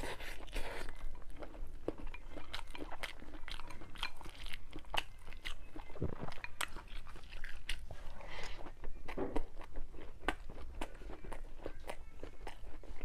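A person chewing and biting food close to the microphone, with a dense, irregular run of small crunchy, wet clicks.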